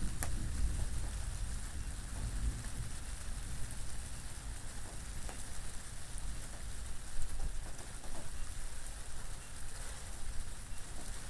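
Steady rain falling, with a low wind rumble beneath it and scattered drops ticking.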